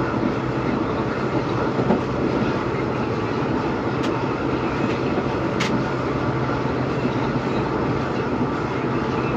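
Train running along the track: a steady rumble and rail noise under a low, even hum from the WDP4B's EMD diesel engine, with a single knock about two seconds in. No horn sounds.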